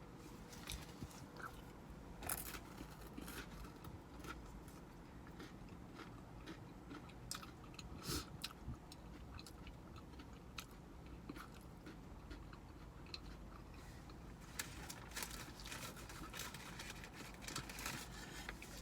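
A person eating homemade soup, chewing and slurping, with scattered small wet clicks and smacks that come more often near the end, over a low steady hum.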